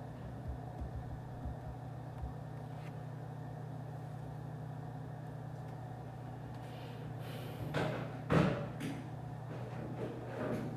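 Steady low hum of office room ambience. In the last few seconds there is a burst of knocks and clatter, the loudest about eight seconds in, like objects being handled or a door or cupboard closing.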